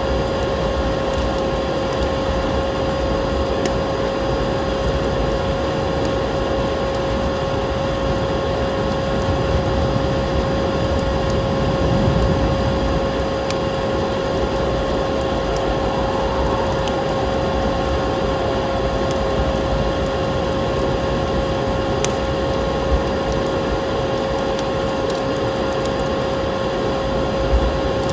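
Vacuum cleaner running steadily, a constant droning hum with a motor tone, mixed with occasional sharp crackles from a wood fire.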